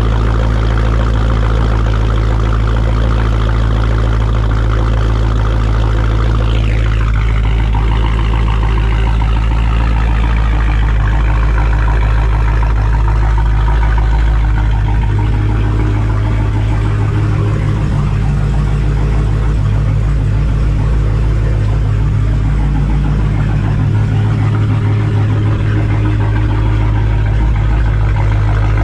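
Dodge Challenger Hellcat's supercharged 6.2-litre Hemi V8 idling loud and deep after a cold start, its exhaust running with no mufflers and no mid pipes. A high whine falls away about seven seconds in, and the idle note shifts a few times later on.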